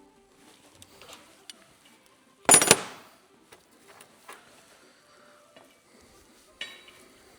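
Metal coilover parts and tools clinking during shock absorber assembly, with one loud ringing metallic clank about two and a half seconds in, a smaller clank near the end and a few light clicks in between.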